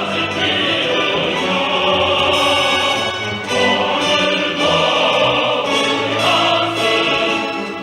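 Choir singing with an orchestra, a classical, operatic-style piece.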